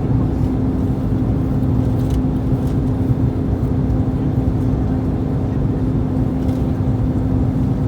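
Airbus A321 cabin noise: a steady rumble of engines and airflow with a constant low hum running through it.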